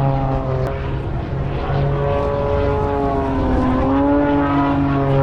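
Steady engine drone made of several held tones over a strong low hum. Its pitch sags and then rises slightly a little past the middle.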